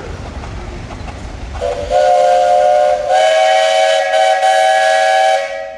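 Steam traction engine's steam whistle blown twice: a shorter blast, then a longer one, each sounding several notes at once.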